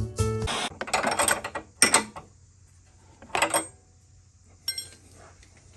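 Hand wrench working the nut of a front sway bar end link, making several short bursts of ratcheting clicks and metal clinks with pauses between them. It marks the new link being tightened down.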